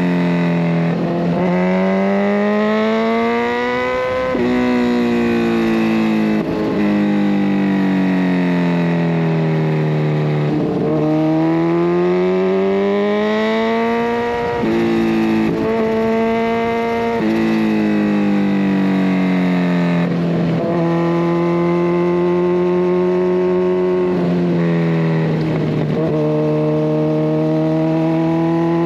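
Kawasaki Ninja 1000SX inline-four running through a de-catted Scorpion Red Power exhaust while being ridden. The engine pitch climbs under acceleration and falls away on the overrun, with short breaks at the gear changes.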